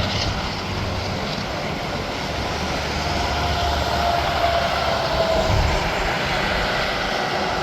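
Interstate highway traffic with trucks passing: a steady rush of tyres and engines, with a faint whine that falls slightly in pitch around the middle.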